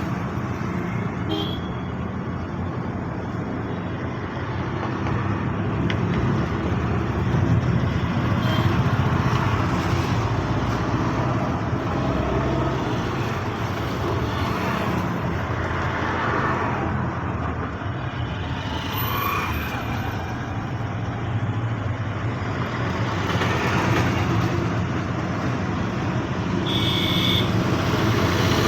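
Mixed road traffic with trucks among it: engines running and vehicles passing in a steady rumble that swells and fades as they go by. A short high tone sounds near the end.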